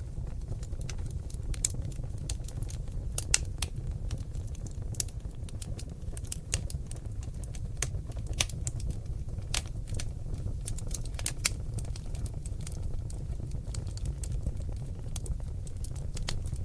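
Seasoned oak logs burning in a fireplace, crackling with frequent irregular sharp pops and snaps over a steady low rumble of the flames.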